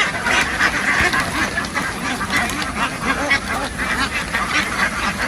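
A large flock of domestic ducks quacking continuously, many calls overlapping into a dense steady chorus.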